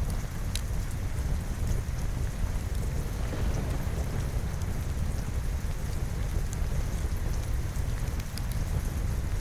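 Steady rain with a continuous deep low rumble underneath and scattered small sharp crackles.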